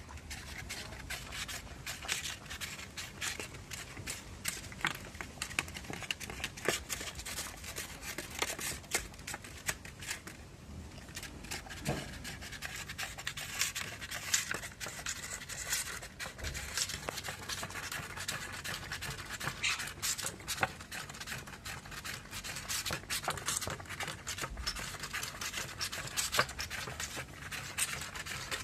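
Dog licking and eating ice cream: a steady run of quick, irregular wet tongue clicks and smacks.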